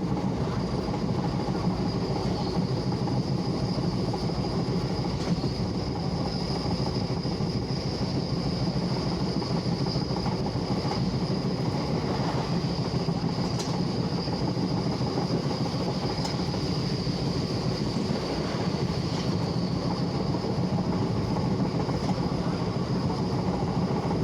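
A train running on the rails with a steady rumble that holds an even level throughout, and a thin, steady high tone above it.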